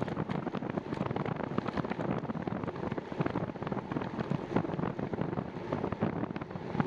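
Wind buffeting the microphone of a camera on a moving bicycle, with frequent small knocks and crackles.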